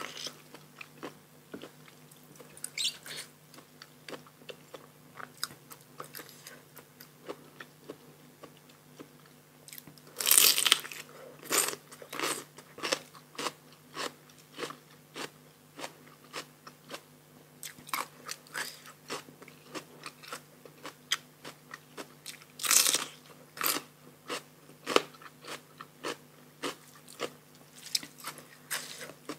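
Close-miked eating: a person chewing and biting with many small wet clicks of the mouth and repeated crunchy bites. The two loudest crunches come about ten and twenty-three seconds in.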